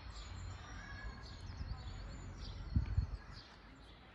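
Small songbirds chirping and trilling repeatedly over a low rumble, with a couple of dull low thumps a little before the end.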